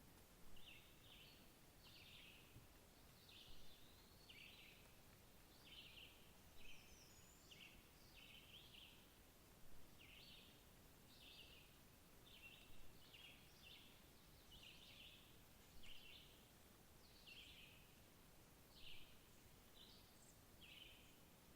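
Faint bird chirping: short high notes repeated about one or two a second, over a steady background hiss.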